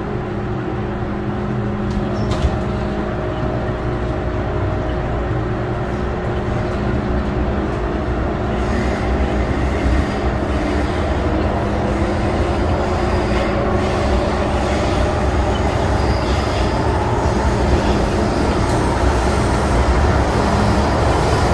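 MTR M-Train electric multiple unit running along the track: a steady rumble with a few constant motor hum tones, growing gradually louder through the stretch.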